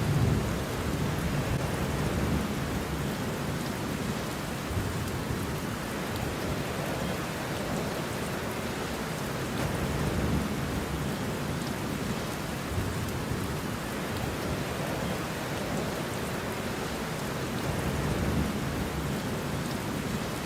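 Steady rain with low rolling thunder that swells and fades a few times, loudest right at the start and again near the end.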